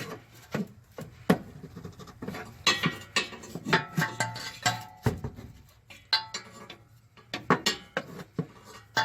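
Irregular metal clanks and clinks, some ringing briefly, of hand tools and a pry bar working against the exhaust hangers.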